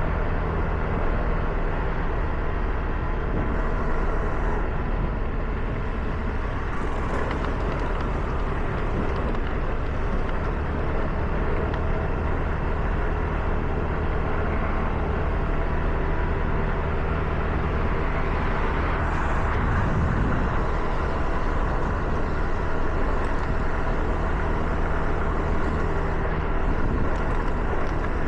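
Car driving on wet roads: steady tyre hiss over a low, even engine hum, with a brief swell about twenty seconds in.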